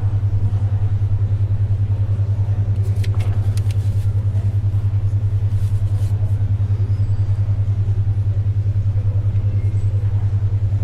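Low steady hum of a 10.2 Hz alpha brainwave tone, pulsing rapidly and evenly, over faint library background noise. A few brief ticks and rustles of paper or pencil come about three to four seconds in and again near six seconds.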